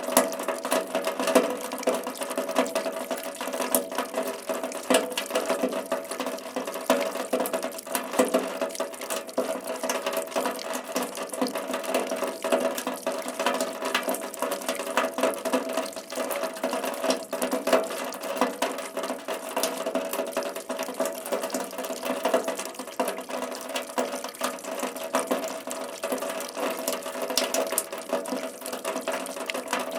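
Steady rain falling, a continuous hiss with a dense, irregular run of individual drops ticking throughout.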